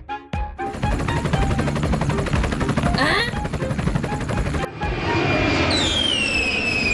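Cartoon sound effects: a fast, even rattle like machine-gun fire for about four seconds, then a long falling whistle starting near the five-and-a-half-second mark.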